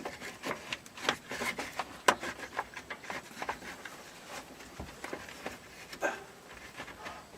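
Irregular light knocks, clicks and scrapes of parts being worked and twisted by hand as the air-conditioner fan motor is fitted into its mounting.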